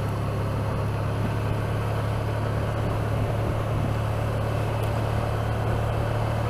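Honda motorcycle running steadily while being ridden, a constant low drone with an even rush of road and wind noise over it.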